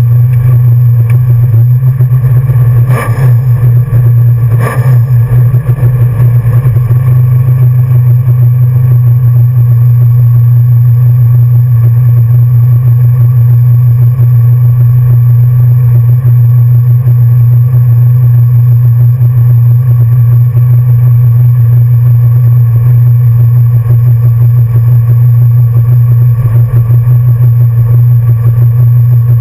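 The 1966 Ford Mustang's 347 stroker small-block V8 idling, loud and steady, heard from inside the cabin. Two brief knocks come about three and five seconds in.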